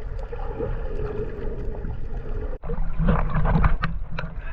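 Muffled water noise from a snorkeller's camera at and under the surface, with a steady hum beneath it. A sudden break comes a little past halfway, after which the water noise is louder and full of short ticks.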